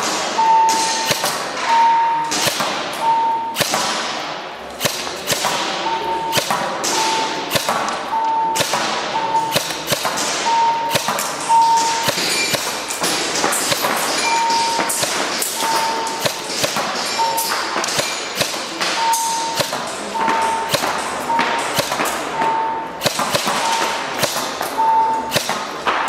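Airsoft guns firing at a range: a steady run of sharp snaps and knocks, with a short ringing ping about once a second.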